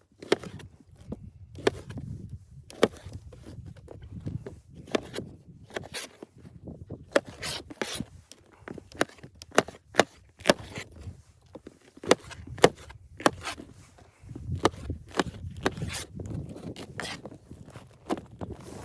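Irregular sharp knocks and scrapes, several a second, over a low rumble.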